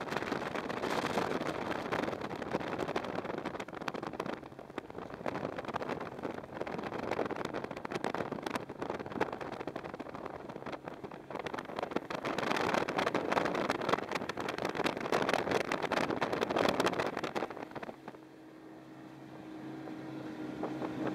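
Racing outboard engines on tunnel boats running at high revs, the dense engine noise swelling louder as the boats pass and falling away near the end to a fainter, steadier hum.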